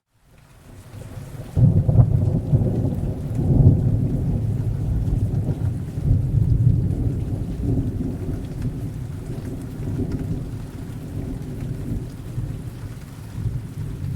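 Thunderstorm: a long roll of thunder breaks in sharply about a second and a half in, then rumbles on and slowly eases, over steady rain. The sound drops out briefly at the very start.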